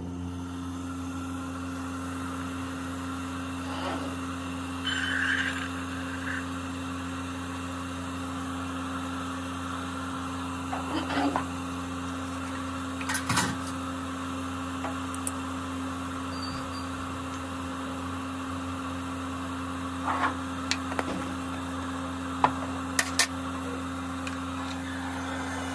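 Steady low hum of a running kitchen appliance, with scattered clinks and knocks of crockery and utensils now and then, several in quick succession near the end.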